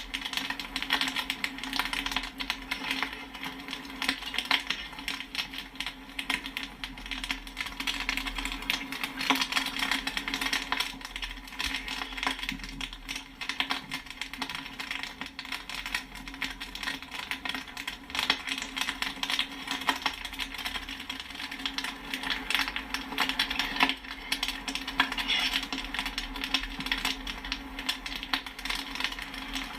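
Popcorn kernels popping in rapid, dense, irregular succession, sharp pops and pings throughout, over a steady low hum.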